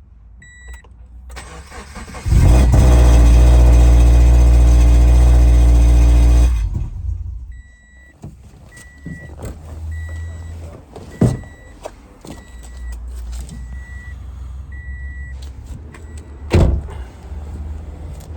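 2013 Subaru BRZ's 2.0-litre flat-four is cranked and starts, running loudly on a steady note for about four seconds before it is switched off; the engine is said to have rod knock. After it stops, the car's warning chime beeps over and over, and two sharp thumps come about halfway through and near the end.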